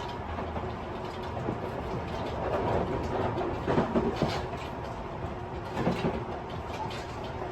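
Interior running noise of a Tobu 50090 series electric train at speed, heard from a motor car: a steady rumble of wheels on rail, with louder rattling and clattering about three to four seconds in and again around six seconds in.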